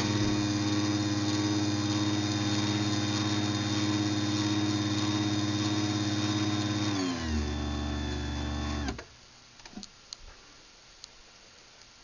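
Craftsman DC belt-drive garage door opener motor running a closing cycle, a steady whine with its gear spinning. About seven seconds in the whine slides down to a slower, lower pitch, and about two seconds later it stops abruptly, followed by a few faint clicks.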